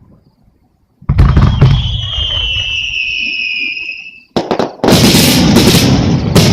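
Fireworks. After a brief hush, a sharp bang comes about a second in, followed by a high whistle that falls slightly in pitch over about two seconds. From about two-thirds of the way through, a dense barrage of bursts and crackling runs on without a break.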